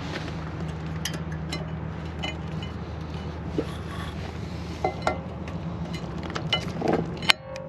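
Rear brake pad being fitted into the caliper bracket's metal pad clips: scattered light metal clicks and clinks, ending in a sharp click with a short ring near the end. A steady low hum runs underneath.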